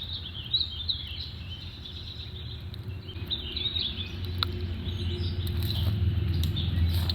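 Small birds twittering in short chirpy phrases, over a low steady rumble that slowly grows louder. A single sharp click comes about four seconds in.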